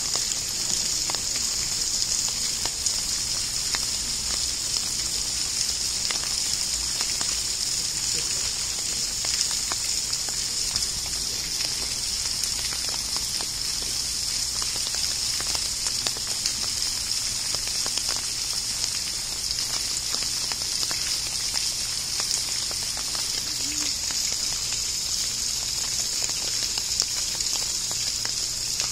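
Steady hiss of rain with faint scattered drop ticks.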